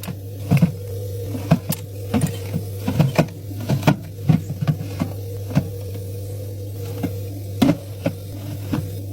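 Drink cans and bottles knocking and clinking as they are set into a fridge one after another: a run of sharp, irregular clicks, busiest in the first five seconds and thinning out later, over a steady low hum.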